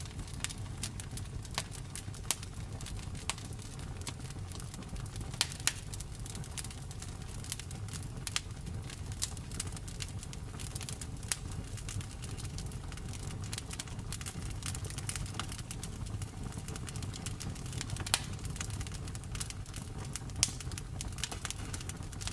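Wood fire crackling: irregular sharp snaps and pops, a few louder, over a steady low rumble of the burning fire.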